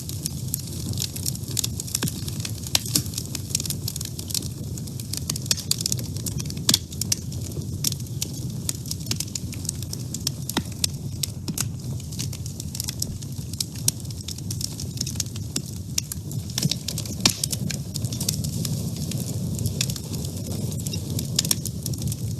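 Wood fire crackling in a woodstove: frequent irregular sharp pops and snaps over a steady low rumble of the burning fire.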